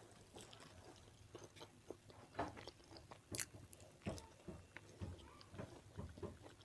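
Faint close-up chewing and biting of jengkol (dogfruit) in chilli balado sauce: irregular small wet clicks, smacks and light crunches of a mouth eating, growing more frequent about two seconds in.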